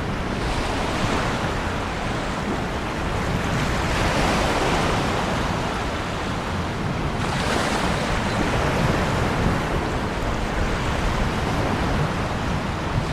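Ocean surf: a continuous wash of waves that swells and eases every few seconds.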